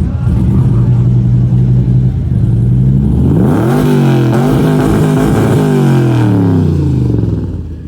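A 1966 Corvette's V8 running at a loud idle, then revved up about three seconds in, held high with the pitch wavering for a couple of seconds, and let fall back toward idle near the end.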